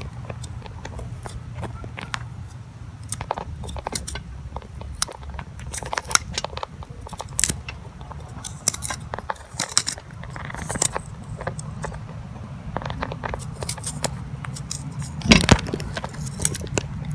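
Irregular clicking, crackling and scraping as the pulp is scraped and poked out of a gourd piece, with a louder knock near the end, over a low steady hum.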